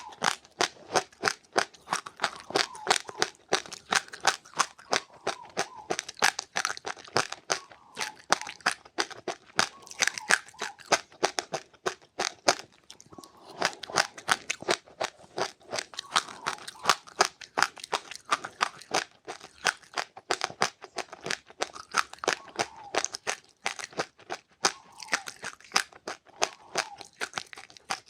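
A person chewing crunchy seeds close to the microphone, with rapid crunches several times a second and a short pause about halfway through.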